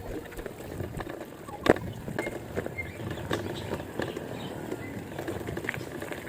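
Ride noise from an electric bike with a 500-watt hub motor: steady rattling and small clicks, and one sharp knock about a second and a half in.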